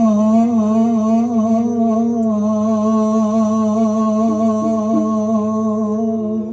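A singer holds one long sung note with a steady vibrato, the lingering end of a line of a Javanese song, over a sustained accompaniment, with a few short plucked-sounding notes about four seconds in. The note cuts off near the end.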